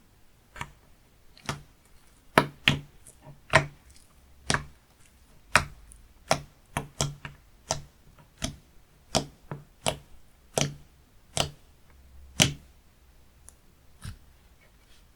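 Slime being pressed and stretched by hand, giving sharp, uneven pops and clicks about one or two a second.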